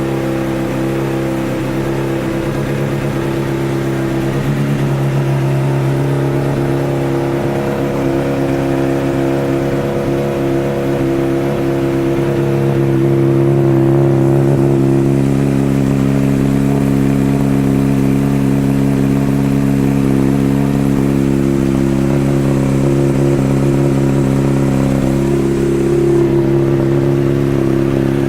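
Honda CBR600RR's inline-four engine running at a steady idle through a Two Brothers aftermarket exhaust, its pitch holding level.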